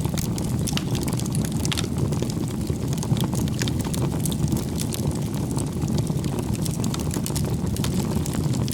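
Bonfire of firewood burning: a steady low rumble of the flames with frequent small sharp crackles and pops of the wood.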